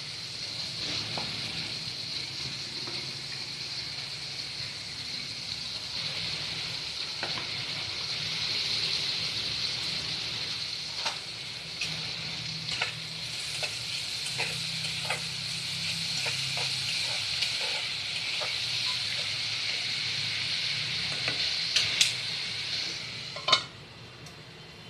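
Poha with onions and curry leaves frying in oil in a steel kadhai: a steady sizzle with scattered small pops and crackles. Near the end a steel lid clanks onto the pan, and the sizzle drops to a quieter, muffled hiss.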